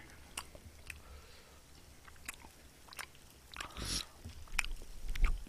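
Close-miked eating sounds: a person chewing roasted sweet pumpkin, with scattered sharp clicks of metal chopsticks against the griddle and plates. A short rustle comes a little before 4 s, and low thumps near the end.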